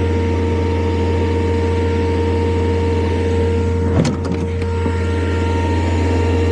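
Skid-steer loader engine running steadily at a constant pitch, with a sharp knock about four seconds in.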